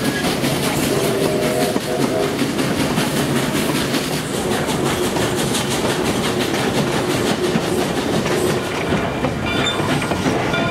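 Steam-hauled passenger train rolling along the track, its wheels clattering steadily over the rails.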